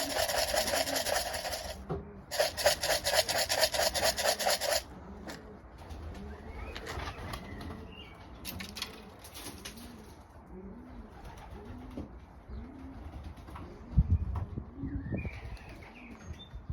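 Racing pigeons cooing repeatedly in the loft. For the first five seconds a loud, fast rattling buzz drowns them out, with a brief break about two seconds in. There is a single thump about fourteen seconds in.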